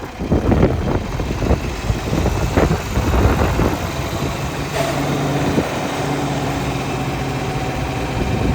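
John Deere 4320's six-cylinder diesel engine running, uneven for the first few seconds and then settling into a steady idle about halfway through.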